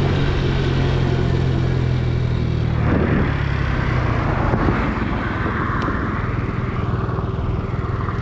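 A 50cc scooter engine running steadily while riding. About three seconds in, a louder rush of wind and road noise takes over.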